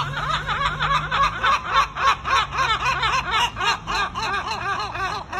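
A parrot mimicking laughter: a long run of quick, pitched 'ha-ha-ha' notes, about five a second, that keeps going without a break.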